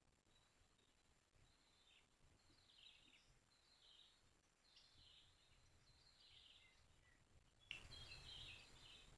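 Faint bird calls, a string of short chirping phrases about once a second. About three-quarters of the way through, a sudden rush of noise comes in and is the loudest thing heard.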